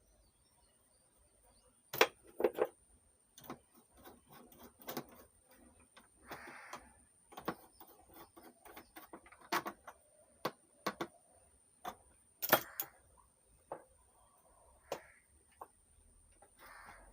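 Irregular small clicks, clinks and knocks of nuts, a spanner or screwdriver and metal hardware as a channel board is fastened back into a mixer's chassis, loudest about two seconds in and again near the middle, over a faint steady high whine.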